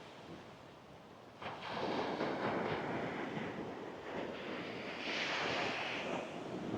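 Small sea wave breaking on the sand about a second and a half in, followed by the hiss of surf washing up the beach, with another swell of wash toward the end.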